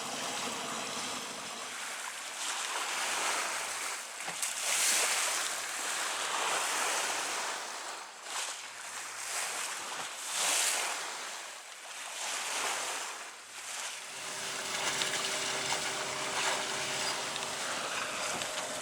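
Sea water rushing and splashing along a sailing yacht's hull in a swell, surging and easing in waves. About two-thirds of the way in, a steady low hum with a faint steady whine comes in under the water noise.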